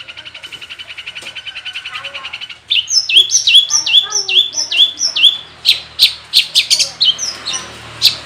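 Long-tailed shrike (cendet) singing its mimicked song: a fast, even trill, then about two and a half seconds in a loud run of downslurred whistled notes, about three a second, changing to short sharp notes at a similar pace.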